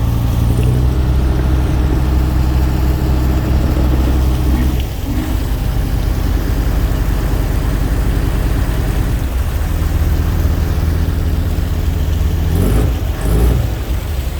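Tugboat engine running with a steady low drone. About five seconds in its note drops back, and about four seconds later it returns to the earlier steady note.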